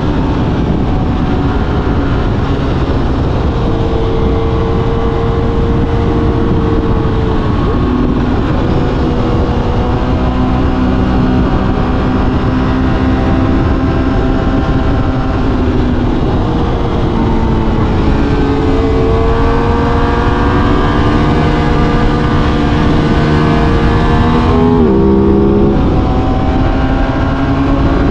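Aprilia RS 660's parallel-twin engine running under way, with wind rushing past the microphone and the engine note rising and falling slowly as the throttle changes. Near the end the note drops sharply, as at a gear change or the throttle closing, then picks up again.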